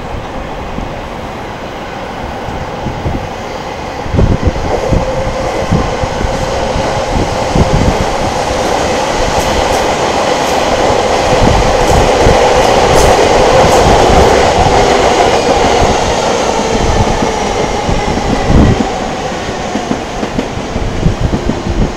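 Electric train passing on the tracks below: a rumble of wheels and clatter over rail joints, with a faint steady whine. It builds up, is loudest around the middle and fades away near the end.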